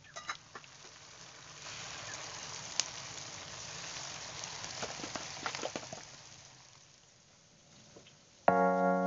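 Battered chicken pieces deep-frying in a pan of hot oil, sizzling steadily with a few pops and spatula ticks; the sizzle starts about a second and a half in and fades out by about seven seconds. Near the end, background music comes in loudly.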